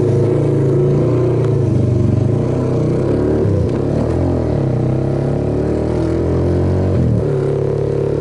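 Suzuki Yes motorcycle's single-cylinder four-stroke engine pulling away and accelerating, its note dropping at gear changes about three and a half and seven seconds in.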